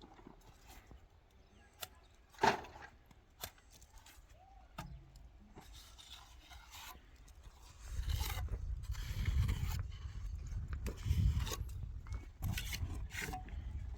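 Scattered knocks and scrapes, with one sharp knock about two and a half seconds in. From about eight seconds a low, uneven rumble comes in and continues.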